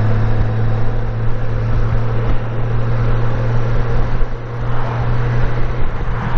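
Honda Gold Wing F6B's flat-six engine running at a steady cruise, with heavy wind and road noise. The low engine note shifts slightly near the end.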